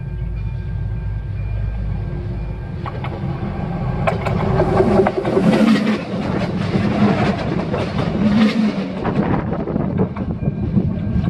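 Stadler local train passing directly over the listener between the rails. Its running noise builds to a peak about four to nine seconds in, full of rapid clicks and knocks from the wheels on the rails, then eases off as it moves away.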